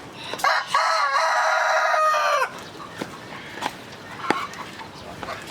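A rooster crowing once, a long call of about two seconds starting about half a second in, followed by chickens clucking.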